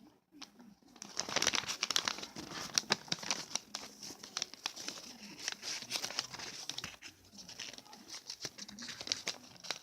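Sheet of paper crinkling and rustling as it is folded and creased by hand into a paper boat, starting about a second in.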